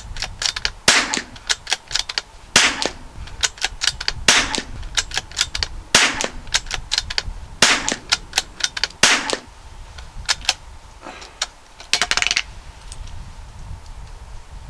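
Ruger Precision Rimfire .22LR bolt-action rifle firing CCI standard velocity rounds, six sharp shots about every second and a half, sped up, with quick clicking from the bolt being worked between them. A fast burst of clicking comes about twelve seconds in, then the shooting stops.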